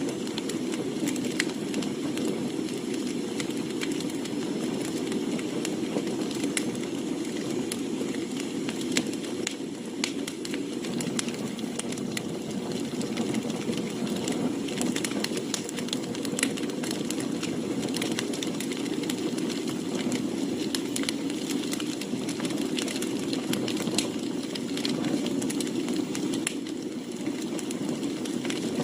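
Firewood burning in a campfire, with frequent sharp crackles and pops over a steady low rush.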